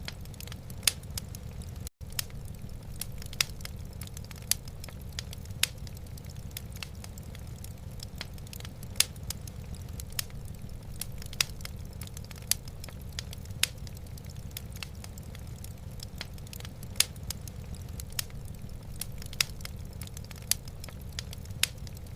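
Wood fire burning in a fireplace: irregular sharp crackles and pops, several a second, over a steady low rumble. The sound cuts out for an instant about two seconds in.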